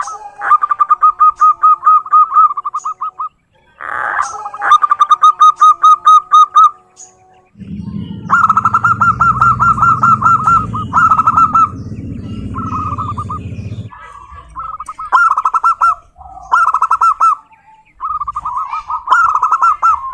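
Zebra doves (perkutut) singing: a string of phrases, each a fast run of short, evenly spaced cooing notes lasting one to three seconds. A low rumble sits under the middle stretch.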